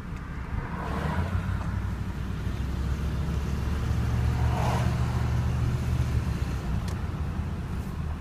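Vehicle engine running with a steady low hum, a deeper band strengthening from about the middle, and two brief swells of higher-pitched noise, about a second in and just before the middle. It is a noise the owner finds unusual and asks others about.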